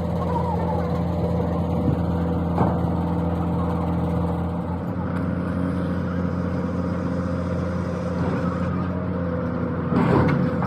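Excavator engine running steadily at an even speed, with a brief louder noise near the end.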